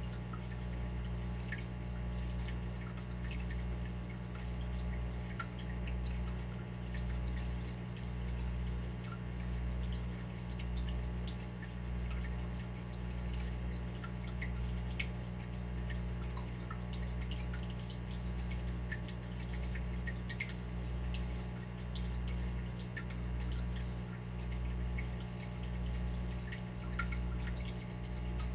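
Water dripping: small, irregular drops falling one at a time. Beneath them runs a steady low hum that swells and fades about three times every four seconds.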